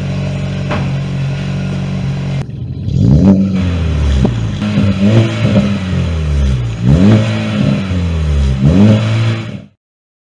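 Chevrolet Cruze 1.4L turbocharged four-cylinder through a Magnaflow stainless cat-back exhaust, idling steadily and then revved in a series of quick blips, each rising and falling in pitch. The sound cuts off suddenly near the end.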